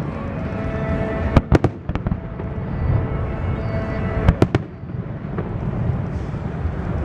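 Aerial fireworks going off: sharp bangs, a pair about a second and a half in and a quick burst of three about four seconds in, over continuous rumbling and crackling from the display.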